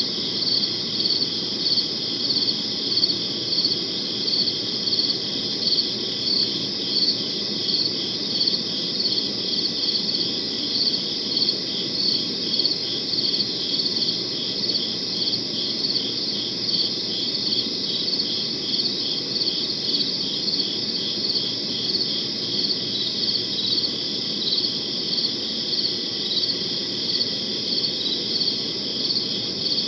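Crickets chirping in a chorus: a steady high trill with one cricket pulsing about twice a second on top.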